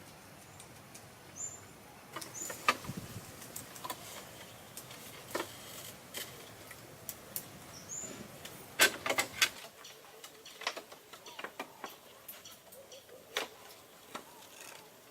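Irregular light clicks and knocks, with a quick cluster of them about nine seconds in, and three short high chirps in the first half.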